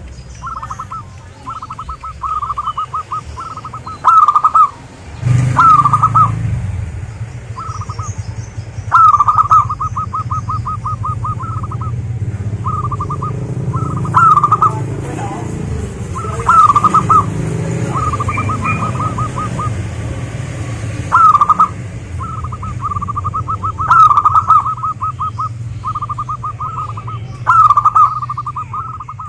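Zebra dove (perkutut) song: phrase after phrase of rapid, rolling coo notes, with a louder phrase every few seconds. A low hum runs underneath from about five seconds in.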